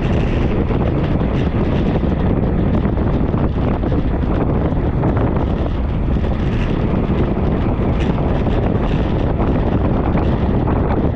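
Steady wind buffeting the microphone of a camera on a moving bicycle.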